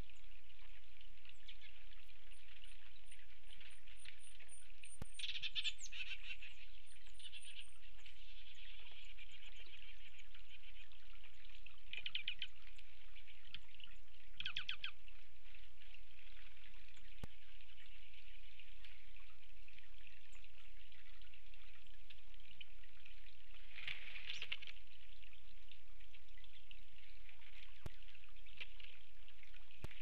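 Wild birds calling at a feeder: a few short, scattered call bursts and a thin, high, repeated call near the start, over a steady hiss.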